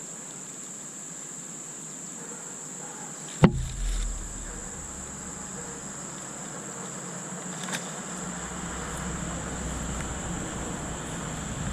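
Insects trilling in one steady high note. A sharp knock comes about three and a half seconds in, followed by low rumbling handling noise, and there is a fainter click near eight seconds.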